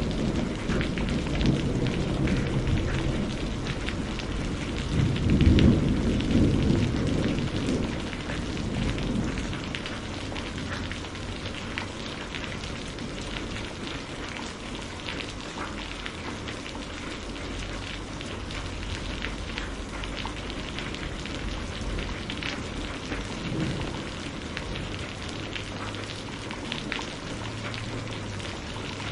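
Steady rain falling, with fine patter of drops throughout. A rumble of thunder swells about five seconds in and dies away by about ten seconds, leaving only the rain.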